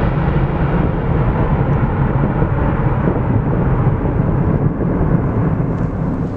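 Jet airliner's engines rumbling loudly as it passes, a deep steady roar that starts to fade near the end.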